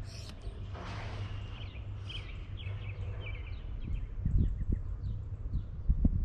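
Small birds chirping in short, repeated calls over a steady low rumble, with a few soft thumps in the second half.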